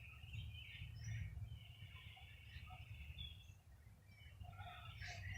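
Faint bird chirps, short and scattered, with one longer call about two seconds in, over a low steady outdoor rumble.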